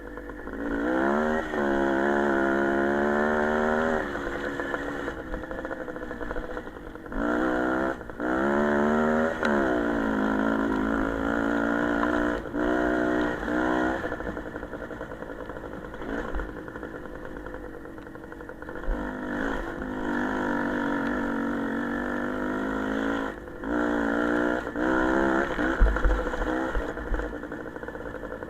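Motorcycle engine accelerating hard: the pitch rises, holds at high revs, then drops off briefly before climbing again, several times over.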